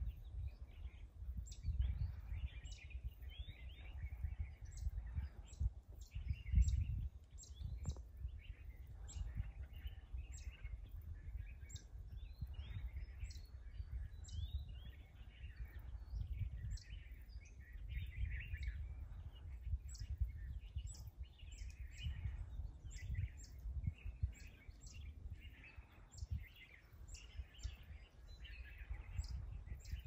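Several wild birds chirping and singing in scattered short phrases, with thin high-pitched notes repeating about once a second, over a low, uneven rumble.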